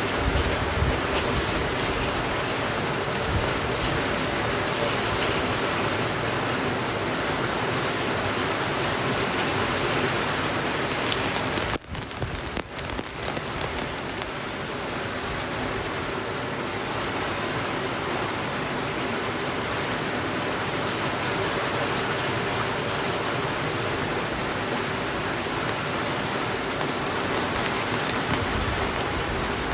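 Steady rainfall, an even hiss of rain pattering on surfaces. The sound dips sharply for a moment about twelve seconds in, then carries on a little quieter.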